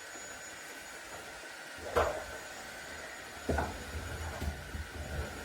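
Cordless stick vacuum running steadily with a thin high whine. A single knock comes about two seconds in, and a run of bumps and thuds follows from about three and a half seconds.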